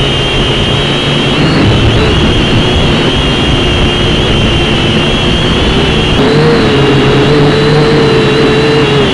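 Small JJRC H5C quadcopter's motors and propellers whining steadily in flight, over wind noise; the whine shifts up in pitch about six seconds in as the motors speed up.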